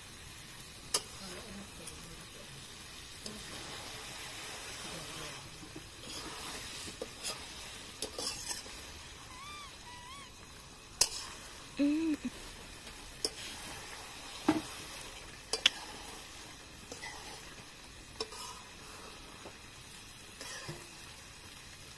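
Chicken leg pieces sizzling in masala gravy in a steel kadhai while a metal spatula stirs them. The spatula scrapes and clinks sharply against the pan a handful of times.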